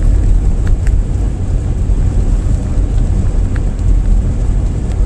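Road and tyre noise inside a moving car at highway speed: a steady low rumble with a few faint ticks.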